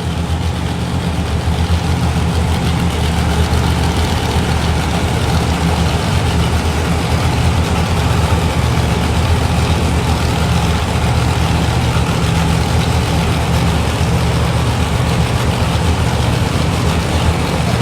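Monster truck engine idling loudly with a deep, steady rumble during its remote ignition interrupter safety check.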